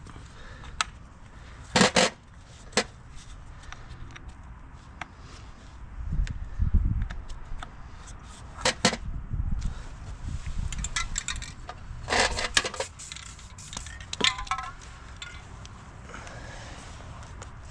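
Hand tools clinking and tapping on metal: irregular sharp clanks, some ringing briefly, with a few dull thumps in the middle.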